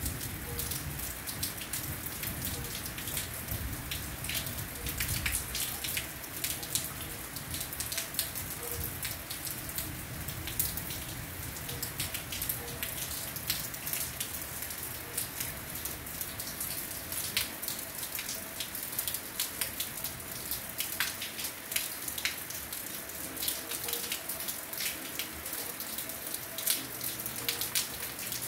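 Heavy rain falling steadily: a constant hiss dotted with many sharp taps of drops striking nearby surfaces.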